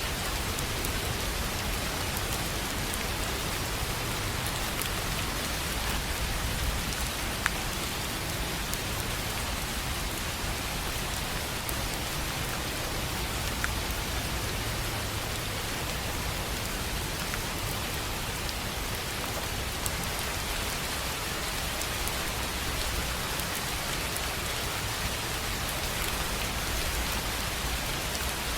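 Steady rain falling on a tin roof, an even patter with a few sharper drop ticks now and then.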